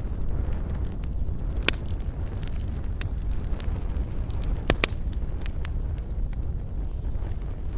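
Wood fire burning in a fireplace: a steady low rumble with scattered sharp crackles and pops, the loudest about a second and a half in and a pair near the middle.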